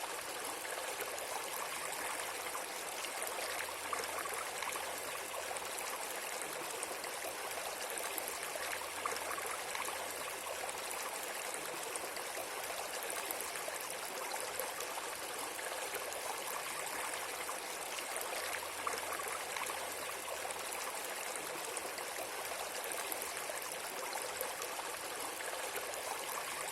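Steady flowing water with a fine, even rush, strongest in the upper and middle range.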